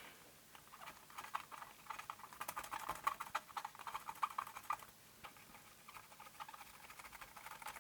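Faint, rapid, irregular light clicking and scratching that thins out about five seconds in.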